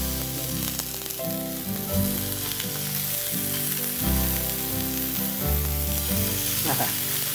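Spinach rolls sizzling steadily in hot oil on a flat iron tawa as they shallow-fry. Background music with sustained low notes plays underneath.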